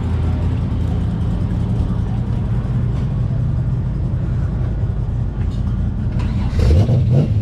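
A car engine running steadily at idle, then revving up briefly with a rising pitch near the end.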